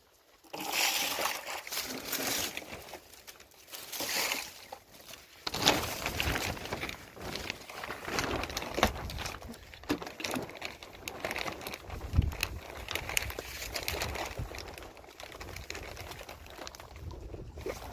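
Water sloshing and being poured as a flooded shelter is bailed out by hand, with irregular rustling and knocks; from about five seconds in a low rumble of wind on the microphone joins.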